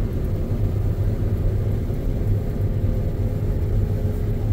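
John Deere X9 combine running steadily while harvesting standing canola: a low, even drone with a faint steady hum above it.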